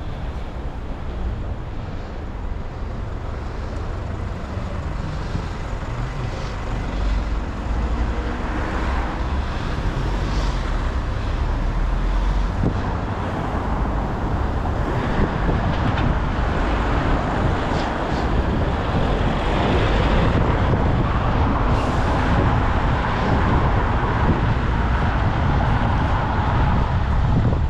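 Rolling bicycle ride recorded on a GoPro: wind rumbling on the camera microphone mixed with road traffic, with a few small ticks and rattles, growing louder in the second half.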